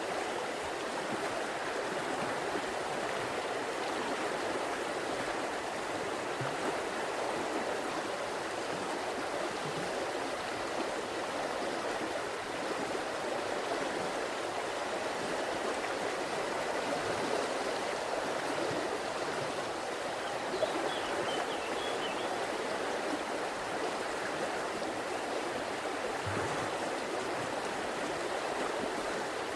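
River water flowing steadily over stones, a continuous even rush and babble of a stream.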